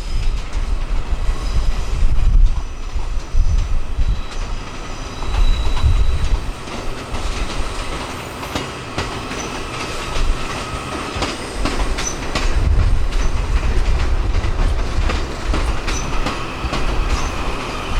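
A train rolling along the track, a low rumble with the wheels clicking over rail joints again and again.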